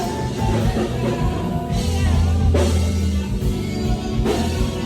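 Live band music: drum kit, bass and guitar playing under a sung vocal line.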